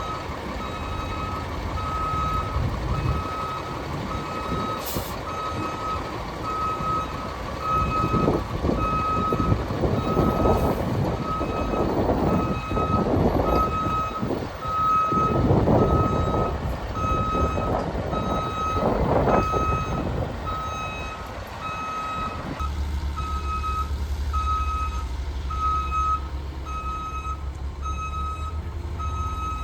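Fire truck's reversing alarm beeping about once a second while the truck backs up, over the rumble of its diesel engine, which swells several times. About two-thirds of the way through, the engine noise changes abruptly to a steady low hum while the beeping goes on.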